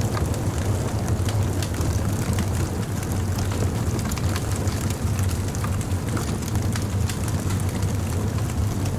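Wood fire burning: a steady low rumble of flames with frequent small crackles and pops from the burning wood.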